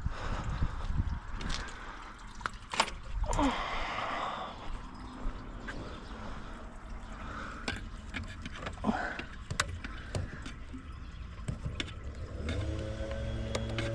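Scattered metallic clicks, knocks and scrapes of hand tools and car parts being handled during an engine-bay teardown. A steady low hum with several tones starts near the end.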